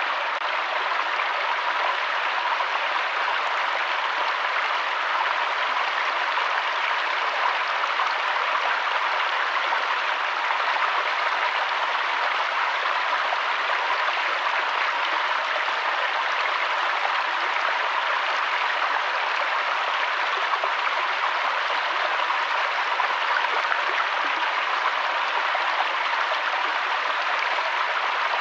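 River water flowing, a steady even rushing that does not change.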